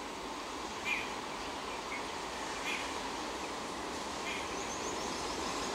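Faint, steady rumble of two approaching electric multiple unit trains, growing a little near the end, with a bird giving a short chirp about every second and a half.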